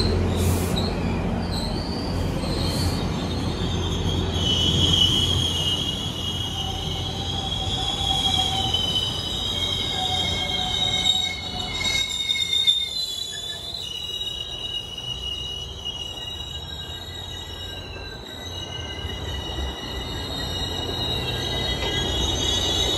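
GO Transit bilevel commuter train slowing along the station platform, its wheels squealing. The squeal is several high, wavering tones over a low rumble that fades after the first few seconds.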